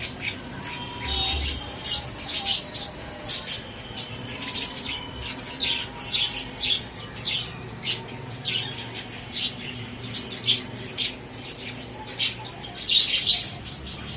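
Budgerigars chirping and chattering: a steady, irregular stream of short, high chirps.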